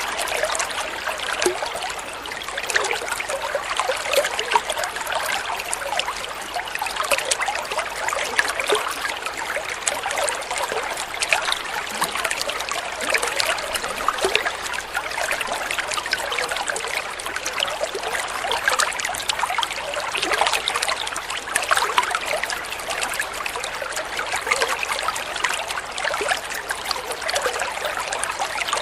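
Flowing water trickling and burbling steadily, a continuous wash of small splashes with no change throughout.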